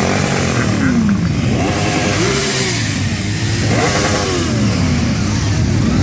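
Motorcycle engines revving and passing, the pitch rising and falling several times over a steady low rumble.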